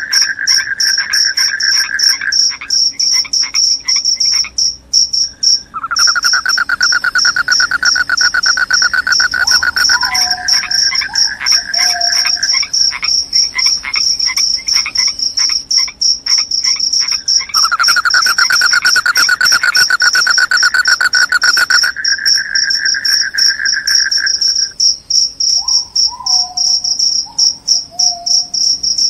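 Field crickets (jangkrik) chirping in a loud, continuous, high, rapidly pulsed trill. A second, lower-pitched trill joins in three long stretches, and a couple of short falling calls come in twice.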